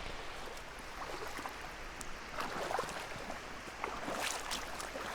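Shallow mountain stream running over rocks, with irregular splashes and knocks of someone wading across it.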